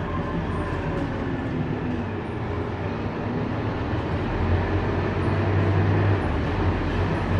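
Scania K230UB city bus's five-cylinder diesel engine running with road noise, a low drone that grows louder about four seconds in as the engine pulls harder.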